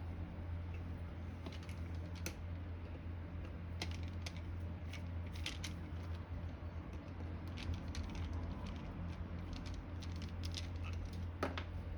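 Scattered light clicks and taps of small metal parts and tools being handled while a motor is taken apart, over a steady low hum.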